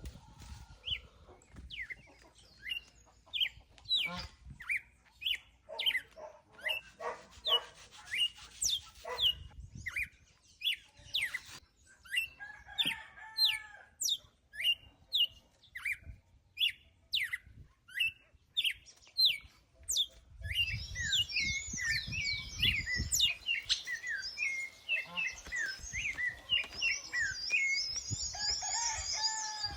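Birds calling while being fed: repeated short, sharp chirps with some lower clucking calls in the first part, then from about two-thirds in a dense chorus of many birds chirping at once.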